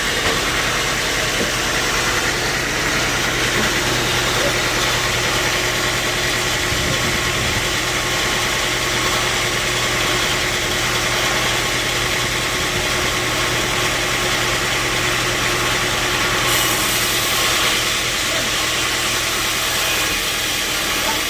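Sawmill machinery running steadily: a constant engine hum under an even mechanical whirr.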